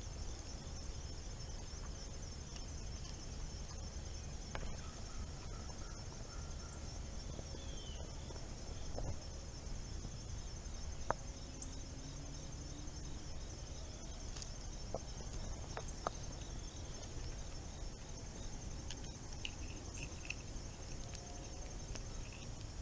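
Crickets trilling steadily in a high, finely pulsing chorus over a low steady background rumble, with a few faint sharp clicks.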